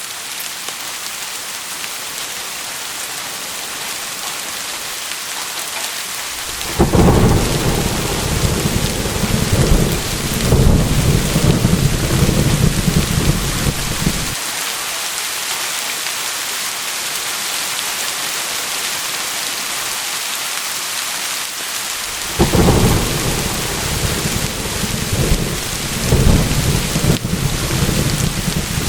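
Steady heavy rain hiss, with two long rolls of deep rumbling thunder, one about seven seconds in lasting some seven seconds and another starting about twenty-two seconds in and running on past the end.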